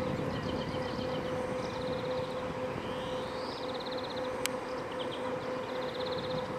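River cruise ship's machinery running with a steady drone and a constant hum, while small birds chirp in short trills and a rising call. A single sharp click about four and a half seconds in.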